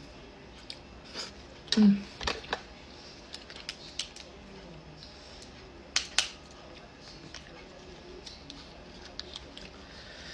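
Scattered sharp cracks and clicks of lobster shell being broken and picked apart by hand. The loudest snaps come about two seconds in and again about six seconds in.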